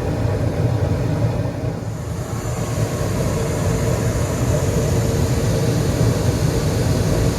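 Gas-fired rooftop HVAC unit running: a steady low hum with a hiss that grows about two seconds in, as its burners fire.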